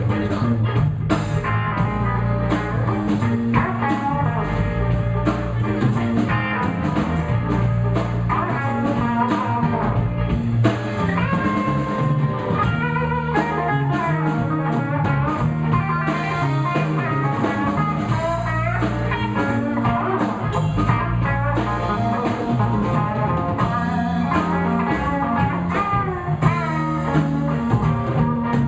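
Live blues band playing an instrumental stretch without vocals: electric guitar lead lines with bent notes over a walking bass line and a drum kit keeping time.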